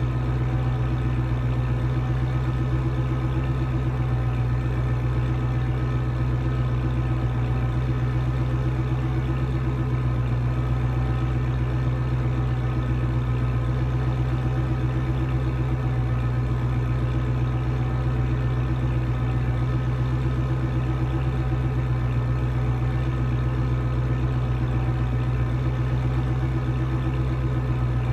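A car engine idling steadily, a low even hum that holds the same pitch throughout with no revving.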